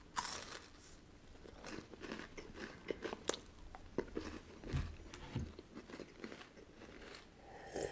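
A person biting and chewing a chocolate candy up close: faint crunching and small wet clicks of the mouth, with a few soft low knocks in between.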